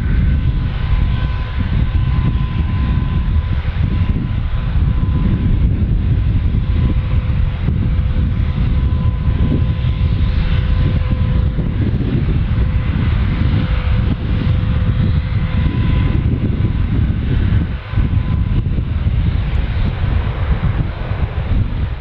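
Passenger jet engines running loud and close: a deep, steady rumble with a few held whining tones above it.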